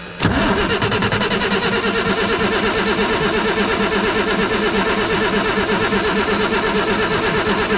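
1987 Ford L8000 turbo diesel's starter cranking the engine over in an even, steady rhythm without it firing, while the injector lines are cracked open to bleed air from the fuel system. The cranking starts suddenly about a quarter second in.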